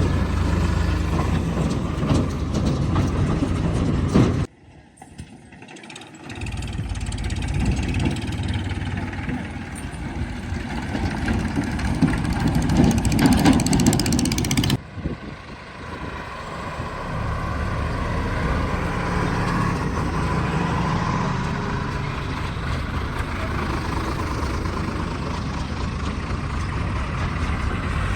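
Diesel engine of a JCB 3DX backhoe loader running as it works. The sound cuts off abruptly about four and a half seconds in and again about fifteen seconds in, then picks up again.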